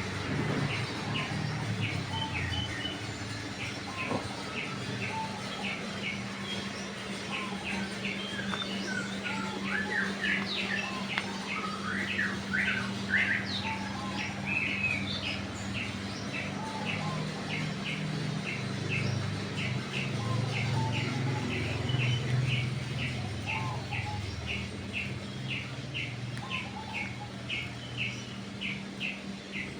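Birds chirping, one repeating a short high chirp steadily about twice a second while other birds call in between. A steady low hum runs underneath.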